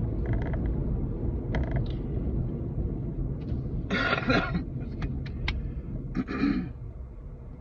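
Car cabin road and engine rumble while driving, which eases off near the end. Two short noisy bursts, about four and six seconds in.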